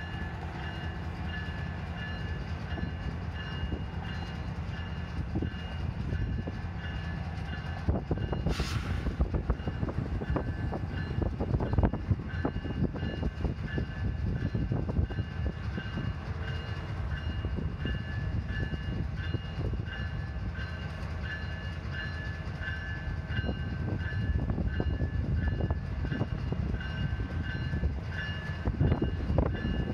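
Union Pacific diesel freight train rolling slowly past: the locomotives' engines rumble and the wheels click and clatter on the rails. A high ringing tone pulses about twice a second throughout, and there is a short hiss just before the 9-second mark.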